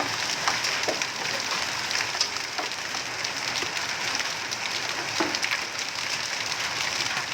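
Hailstorm rain: a steady hiss of rain with scattered sharp clicks of hailstones striking.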